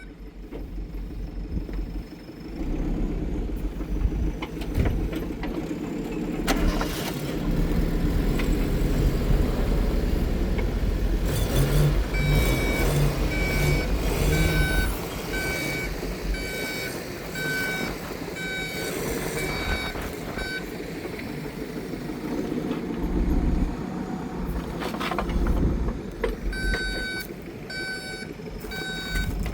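Diesel earthmoving machine running under load while it moves earth, its reversing alarm beeping in an even series partway through and again near the end.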